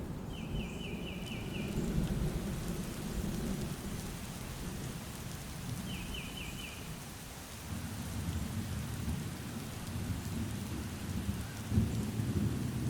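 Rolling thunder rumbling over steady rain in a forest, the rumble swelling in the second half to a loud peak near the end. Twice a bird sings a short trill of five or six quick repeated notes.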